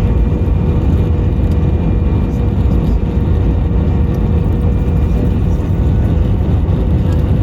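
Airbus A321 cabin noise: a steady rumble of the jet engines and airflow with a faint constant whine above it, even and unbroken.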